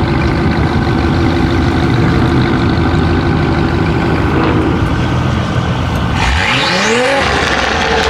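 Car engines running loudly; about six seconds in, one engine revs up hard, its pitch rising quickly for about a second.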